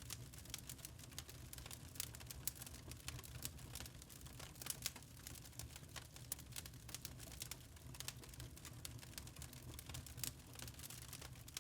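Wood fire crackling in a fireplace: many irregular sharp snaps and pops, a few louder than the rest, over a low steady rumble.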